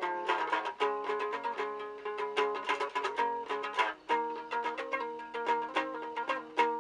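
Altai topshur, two horsehair strings tuned a fourth apart, strummed in a quick, rhythmic pattern of several strokes a second, with the notes shifting as a tune is played over a ringing upper note.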